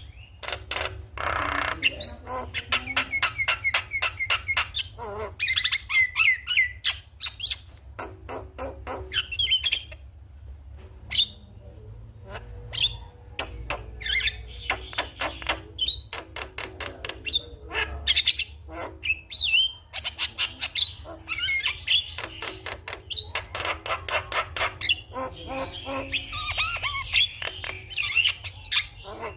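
Javan myna (jalak kebo) chattering and singing: rapid runs of clicks and harsh notes mixed with whistled chirps, in repeated bursts, over a steady low hum.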